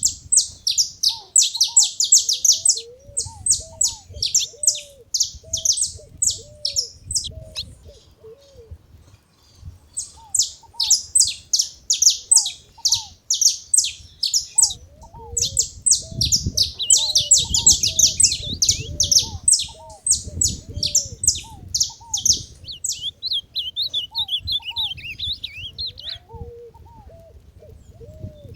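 Saffron finches chirping and twittering in fast runs of high notes, in bursts with a sparser stretch in the middle. A separate, lower call repeats throughout as a series of short hooked notes.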